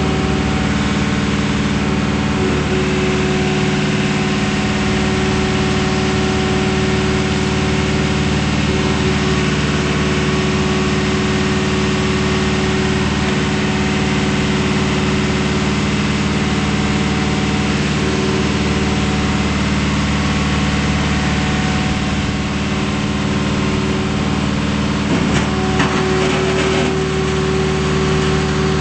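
Diesel engine of a Volvo MCT125 compact track loader running at a steady speed, with a few brief knocks near the end.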